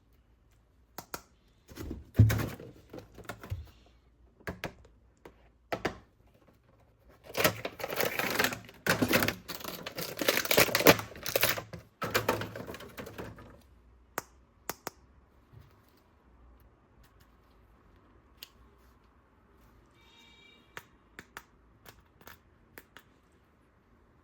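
Plastic toy parts being handled: sharp clicks and knocks with a busy stretch of scraping and handling noise through the first half, then a few scattered single clicks.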